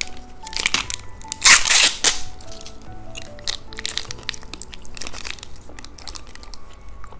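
Crackling and crunching of a candy snack and its plastic wrapper, with a louder crinkling burst about one and a half seconds in, over light background music.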